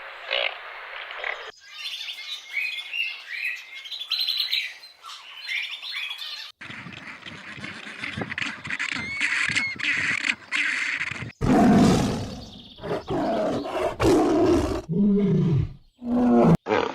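A string of separate animal sound clips joined by abrupt cuts: birds chirping for the first few seconds, then a mixed stretch with bird calls, then loud, low animal roars from about eleven seconds in.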